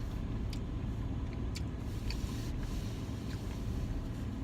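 Car engine idling with a steady low rumble, with a few light clicks over it.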